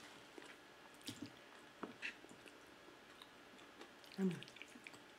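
Faint, close-miked mouth sounds of chewing pizza: soft wet clicks and smacks scattered through, with a short low hum from the eater about four seconds in.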